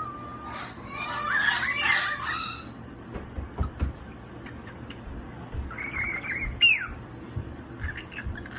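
Pet cockatoo vocalizing: a run of chattering, warbling calls, then after a pause another call and a sharp squawk that slides down in pitch. Soft clicks and knocks can be heard in between.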